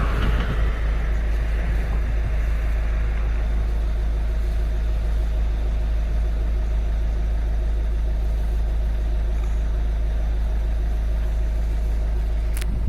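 Citroen C4 Grand Picasso 1.6 HDi four-cylinder turbodiesel idling steadily, heard at the exhaust tailpipe. A short click comes near the end.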